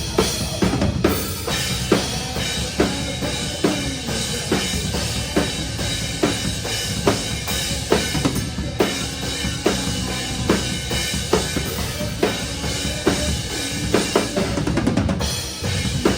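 Live metalcore band playing, heard from close to the drum kit: the drums are up front, with a snare stroke landing about every 0.85 seconds over kick drum and the rest of the band.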